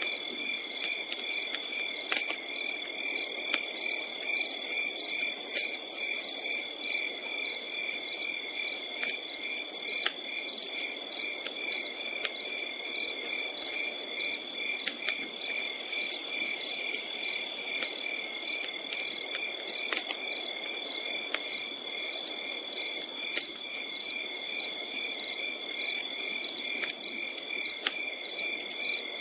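Crickets chirping in a steady, even rhythm over a continuous high insect trill, with scattered sharp crackles from a campfire.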